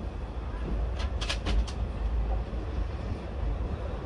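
Passenger train rumbling low as it rolls slowly along the platform, heard from the coach door, with a few sharp clicks about a second in.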